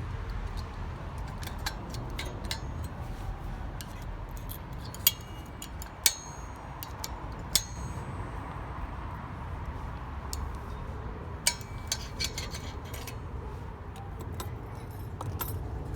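Scattered metallic clicks and clinks of a tool working on the microwave's metal magnet assembly while its magnets are pried loose. A few of them ring briefly, the clearest about six seconds in, over a steady low rumble.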